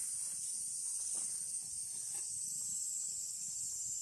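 Ajillo sizzling steadily in hot olive oil in a pan over a campfire, a continuous high hiss with a few faint pops.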